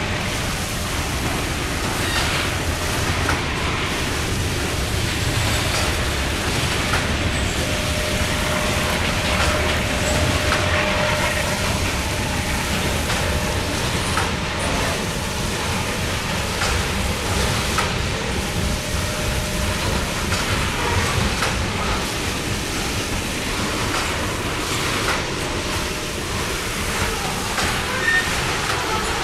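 Loaded coal gondola cars rolling past on the rail: a steady rumble of wheels on track with scattered clicks and clatter.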